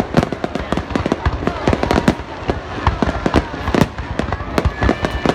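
Fireworks going off in a dense barrage: rapid, overlapping bangs and crackles, several a second, with no let-up.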